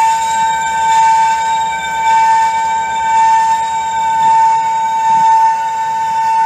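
A diesel freight locomotive hauling tank cars, its faint low rumble under a loud, steady high-pitched drone that swells about once a second.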